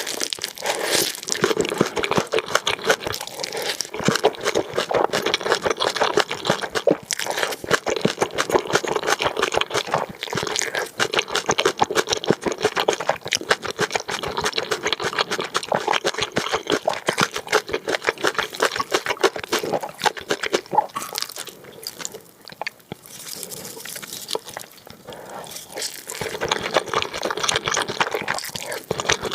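Close-miked eating sounds: wet chewing and slurping of spicy black bean noodles, with some crunching, in a dense stream of mouth smacks. It eases off for a few seconds past the middle and picks up again near the end.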